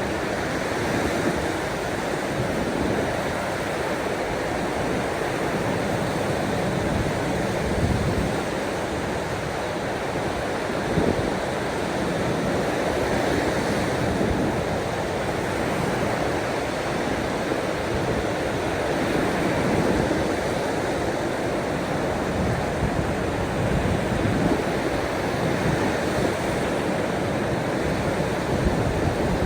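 Ocean waves washing against the shore in a steady, continuous wash of surf.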